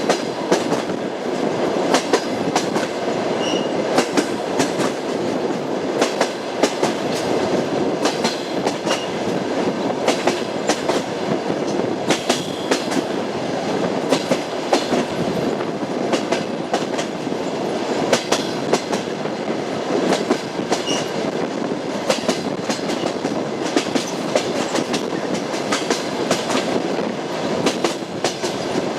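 Train wheels knocking over rail joints: a steady rolling rumble with repeated sharp clicks, often coming in small groups.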